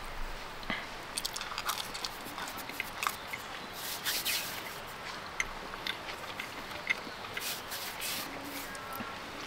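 A person chewing and biting pizza close to the microphone: many short wet clicks and crackles, with longer hissing bursts about four seconds in and again near eight seconds.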